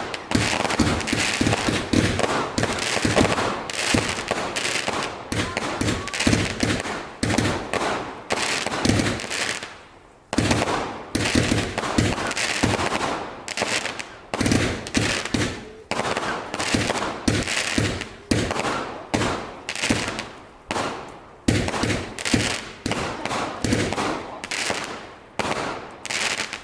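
Firework barrage: a rapid, dense run of bangs and crackles, a short lull about ten seconds in, then regular shots about one and a half to two a second until it stops.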